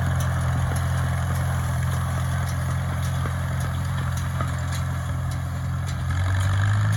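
Oliver Super 66 tractor's four-cylinder engine running steadily, its pitch rising slightly near the end.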